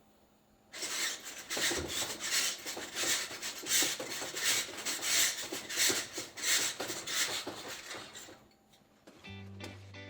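Chimney-sweeping brush scraping soot inside a wood stove's flue pipe, in repeated rasping strokes for about seven seconds before it stops.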